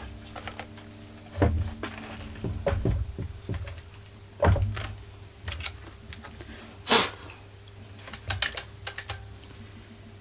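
Irregular metallic clicks and knocks of a ratchet wrench and screws being handled while a generator's muffler is bolted on. One sharper knock comes about seven seconds in, and a quick run of clicks follows about a second later.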